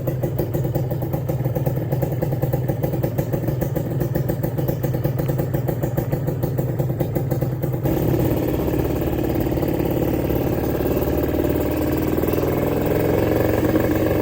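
Kawasaki Ninja 150 SS two-stroke single-cylinder engine running with its 'ngorok' exhaust: a steady idle-like note, then about halfway through it gets louder and the pitch slowly climbs toward the end.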